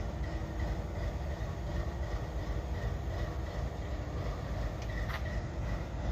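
Diesel freight locomotive idling: a steady low rumble with no change in pitch.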